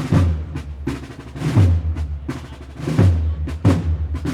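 The percussion section of a Sevillian procession band, snare drums and bass drum, playing a slow processional march: heavy bass-drum strokes every second or so with snare rolls between them.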